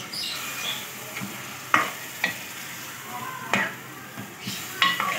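Chicken and spice masala sizzling in a metal pot while a steel spoon stirs and scrapes through it, with a few sharp clinks of the spoon against the pot. The masala is being fried with a splash of water so the spices don't burn.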